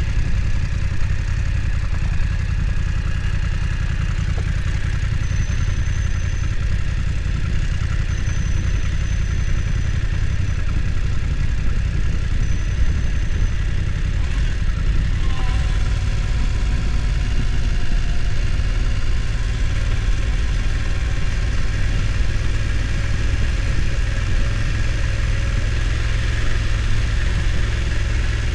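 BMW F900 XR motorcycle's parallel-twin engine running steadily at low revs.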